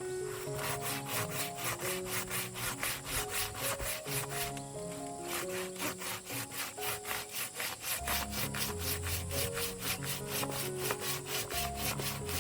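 Hand saw cutting through wood in quick, even strokes, about four or five a second, with a short pause about four and a half seconds in. Background music with held notes plays underneath.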